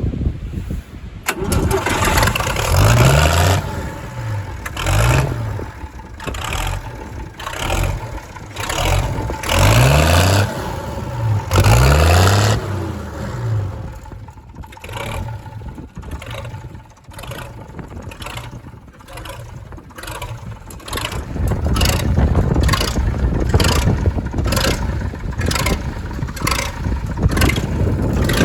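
Nuffield 690 tractor's six-cylinder engine running and being revved up and down several times in quick blips. It then settles into a steady run with a regular pulse of about two beats a second.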